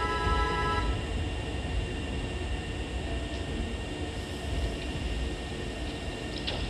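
Hankyu 6000 series electric train pulling out of the station: a steady low rumble with a few sharp clicks near the end. A steady chord of tones from the platform stops about a second in.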